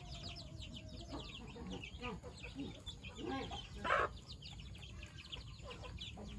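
Chickens clucking, with a dense run of short, high chirps throughout and one louder call about four seconds in.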